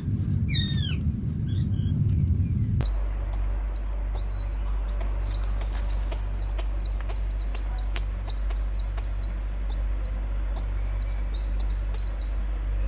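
Pet birds chirping: a run of short, high chirps repeating a little under twice a second over a steady low hum, starting abruptly about three seconds in. Before that, a low rumble with one falling squeak.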